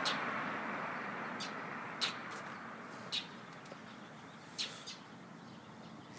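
Several short, sharp bird chirps, spaced irregularly a second or so apart, over a rush of passing traffic that fades away.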